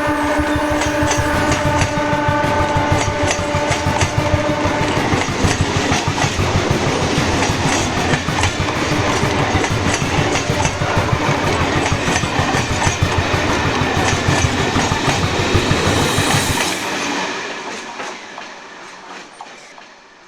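Train passing: its horn sounds a steady held note that stops about five seconds in, with the wheels clattering rhythmically over the rail joints, then the sound fades away over the last few seconds.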